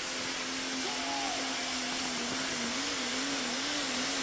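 Competition pulling tractor's engine running flat out during a pull: a loud, steady roar with a droning pitch that wavers in the second half.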